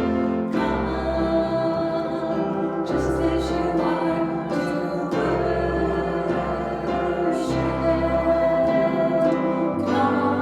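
Congregational or choir singing of a worship song with instrumental accompaniment and a steady bass line.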